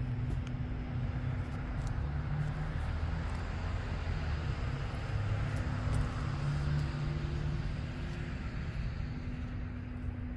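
Built 408 cubic-inch stroker V8 (a 6.0 L LQ9 iron block with an aggressive BTR stage 3 camshaft and long-tube headers) idling steadily, with an uneven low rumble.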